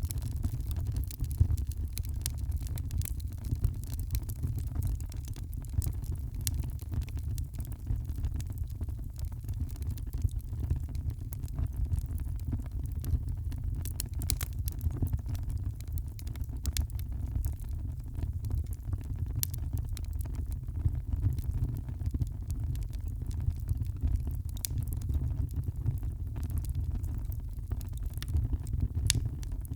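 Wood fire crackling in a fireplace: frequent small sharp pops and crackles scattered over a steady low rumble.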